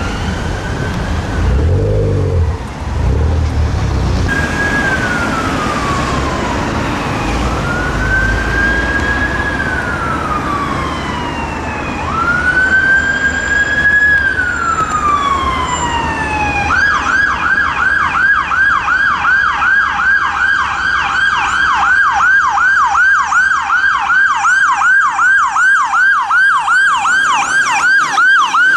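Mercedes Sprinter ambulance siren on a slow wail, each sweep rising then falling over a few seconds. About halfway through it switches to a fast yelp of about three cycles a second. The first few seconds are low traffic rumble before the siren comes in.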